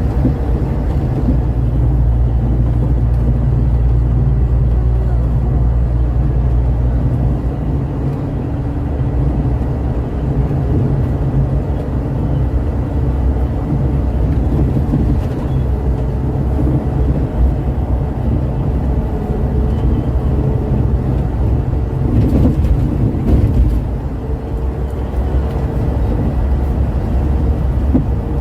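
Scania K410 multi-axle coach on the move: a steady low engine drone mixed with road and tyre noise.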